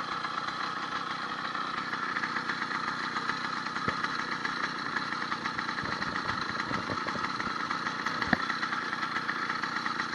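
80cc two-stroke motorized-bicycle engine, fitted with a needle-bearing wrist pin, idling steadily.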